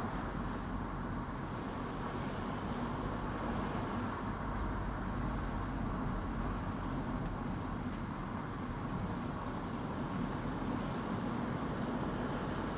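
Car driving at a steady pace: low engine hum with tyre and road noise.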